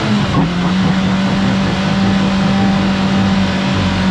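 An off-road vehicle's engine held at steady high revs while its tyres spin on rock. The vehicle is stuck, hung up on its trailing arm and mud flap, and does not climb.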